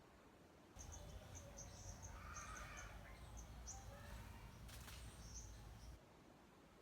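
Faint, quick high chirps of small birds, repeated several times a second over a low rumble. The sound begins and ends abruptly about a second in and near the end, with one sharp click in between.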